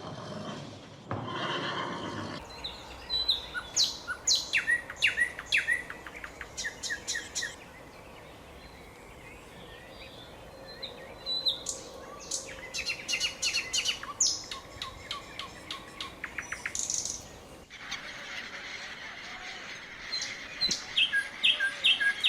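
Small songbirds chirping and singing in quick phrases of short high notes and trills. Near the start, a horse's whinny tails off, and about 18 s in the recording changes to a different bird calling.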